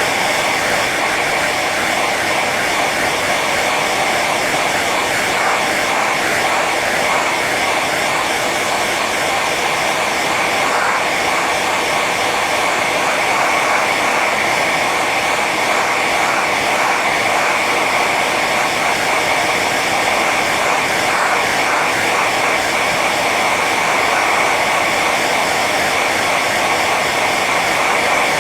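Hair dryer running steadily on its high setting: an even rush of blown air with a steady whine from the motor and fan.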